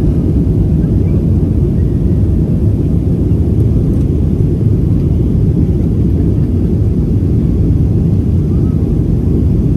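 Cabin noise of a Boeing 737-700 airliner under way: a steady, loud, low rumble of engines and airflow heard from inside the passenger cabin.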